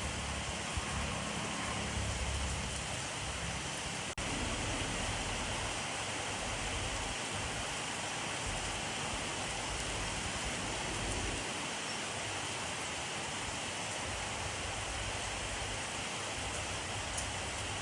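Steady, even rainfall, with a momentary drop-out about four seconds in.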